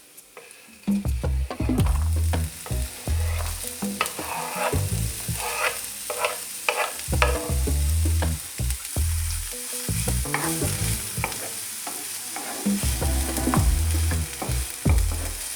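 Food sizzling as it fries in hot oil in a pan, with repeated clicks, scrapes and dull knocks of a utensil being worked in the pan.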